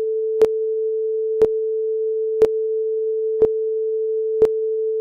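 A steady electronic tone at a single pitch, like a test tone or dial tone, with a short sharp click once every second.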